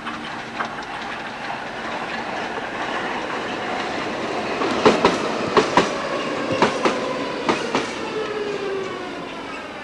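Budapest tram running along the track, its wheels clicking over rail joints in quick pairs several times from the middle on, over a steady running noise and a motor whine that slowly falls in pitch.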